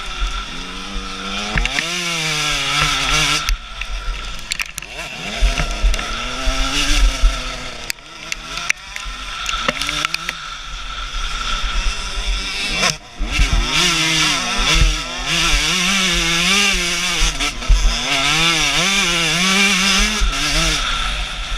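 Husqvarna TC 125 two-stroke motocross bike's engine being ridden hard, its pitch rising and falling over and over as the throttle opens and closes and the bike shifts gears. Scattered sharp knocks and a steady rush of wind noise run under the engine.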